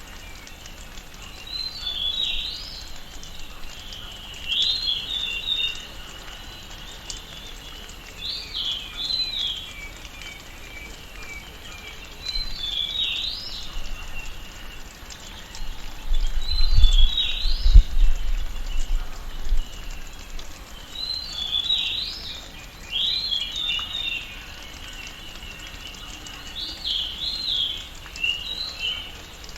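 Tropical rainforest ambience: a bird repeats a short phrase of quick rising and falling whistled notes about every two seconds over a steady high insect hum. A brief low rumble comes about two-thirds of the way through.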